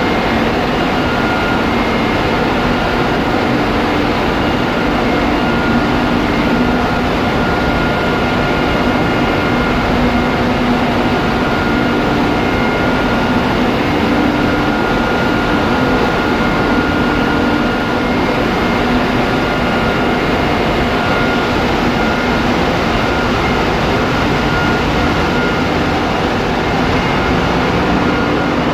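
Loud, steady machinery noise in a ship's engine room: diesel engines and auxiliary machinery running continuously, with a few steady whining tones held through the din.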